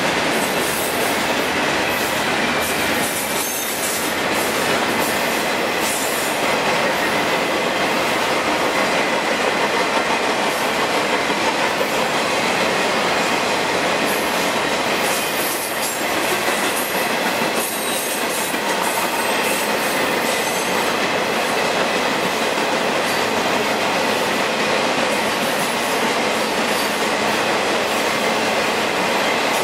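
CSX intermodal freight cars rolling past at speed: a steady, loud rumble of steel wheels on rail with a thin, steady high squeal from the wheels.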